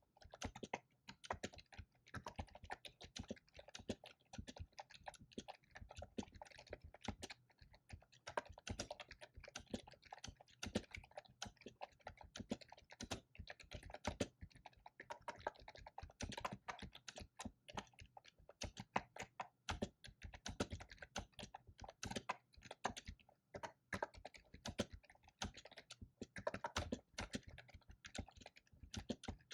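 Continuous fast typing on a computer keyboard: dense, irregular key clicks with brief pauses between bursts.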